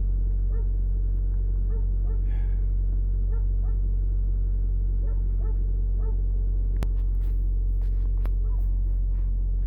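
2010 Hyundai Accent's 1.6-litre four-cylinder engine idling steadily just after a cold start in 3-degree weather. Short faint barks repeat over the idle.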